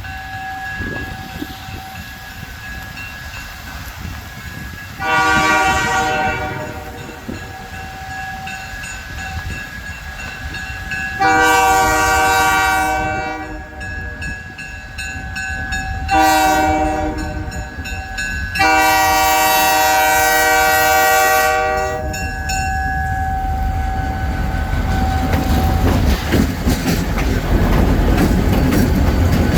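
Diesel locomotive horn sounding the grade-crossing signal: two long blasts, a short one and a final longer blast. After it the train's engine and wheels rumble in, growing louder with a rhythmic clatter as it reaches the crossing.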